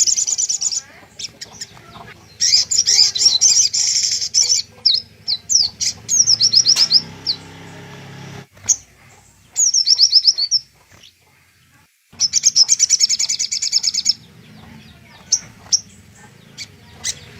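Little spiderhunter (sogok ontong) song: long, fast rattling runs of high chirps lasting a couple of seconds each, with single short calls between them and a brief pause about two-thirds of the way through.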